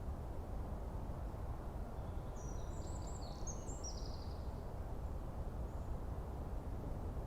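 Forest ambience: a steady low rumble of background noise, with a small bird giving a quick cluster of short, high chirps about two seconds in, lasting around two seconds.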